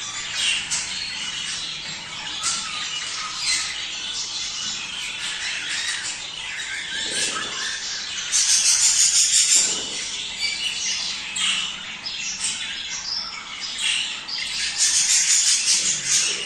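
A flock of budgerigars (budgies) chattering, warbling and squawking nonstop: breeding-season courtship chatter. Louder bursts of fast chirping come about halfway through and again near the end.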